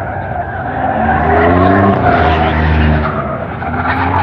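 Drift car's engine revving hard with its tyres squealing as they skid; the engine pitch climbs about a second in, drops near three seconds, and climbs again near the end.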